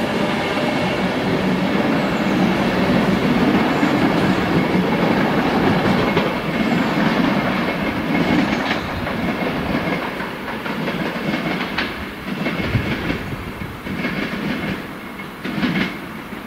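Avanti West Coast electric train running away over the tracks, its wheels rumbling with a few sharp clicks over rail joints. The sound slowly fades as it goes.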